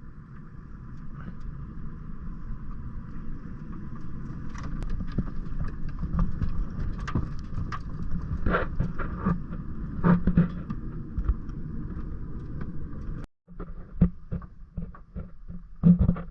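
Vehicle driving, a steady low rumble with scattered knocks and rattles. It cuts out briefly about 13 seconds in and resumes with sharper knocks.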